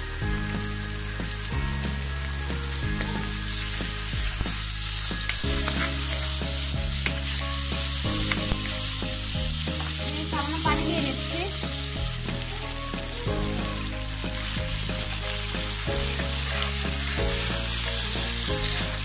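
Sliced onions and garlic paste sizzling in hot oil in a non-stick pan as they are stirred. The sizzle grows louder about four seconds in.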